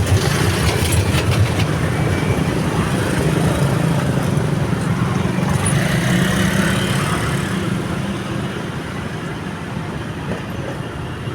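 A train rumbling past, its wheels clicking rapidly over rail joints in the first second or so. The rumble then slowly fades as it moves away.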